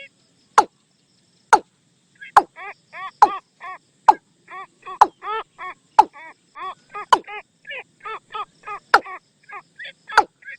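Watercock calls: a rapid run of short, hollow notes, about three a second, starting about two seconds in. Sharp clicks sound roughly once a second throughout and are the loudest events.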